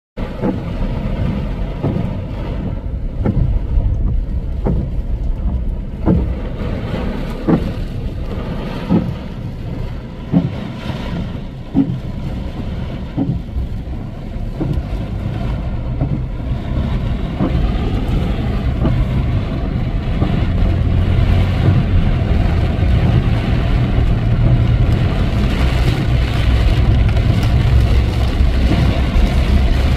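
Steady low rumble of a vehicle driving through rain, with a regular knock about every second and a half during the first half; the rumble grows louder from about eighteen seconds in.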